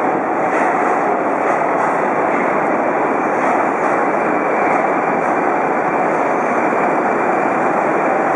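Moscow Metro train running, a loud steady noise with no breaks.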